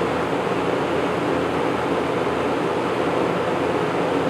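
1980s Lakewood second-generation box fan running steadily: an even rush of moving air over a faint low motor hum. Its blade set is very well balanced, so it runs smooth, with no wobble.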